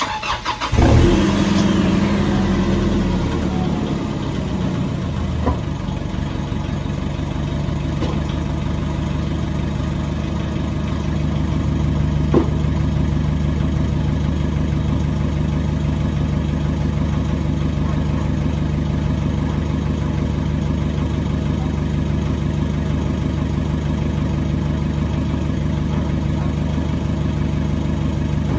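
Nissan Navara turbo engine cold-starting: a brief crank, catching about a second in with a short flare of revs, then settling into a steady idle. The exhaust has its muffler deleted and only a free-flow tip.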